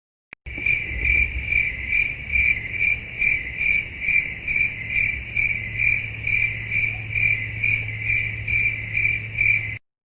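Cricket chirping sound effect: a steady high trill pulsing about twice a second over a faint low hum, cutting in and cutting off abruptly.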